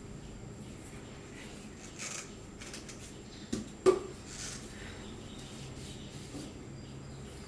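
Light handling noises: brief scrapes and a couple of sharp knocks a little past halfway, over a low steady hum.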